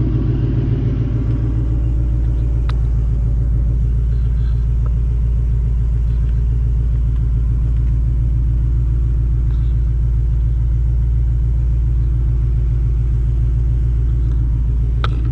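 Mustang engine idling steadily through a Borla ATAK cat-back exhaust, a low even note that does not change pitch. A sharp click sounds about two and a half seconds in, and another near the end.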